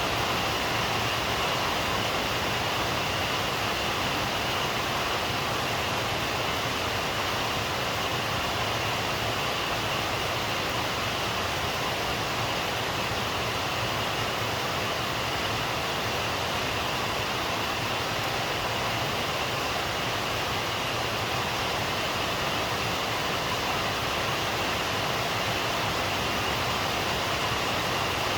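Steady rain falling, an even unbroken hiss with no pauses or separate drops standing out.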